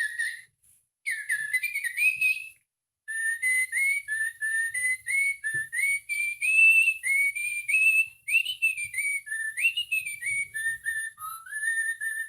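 Interactive electronic toy bird chirping and whistling: a quick run of short whistled notes, most of them gliding upward, with brief gaps near the start and a few lower notes near the end.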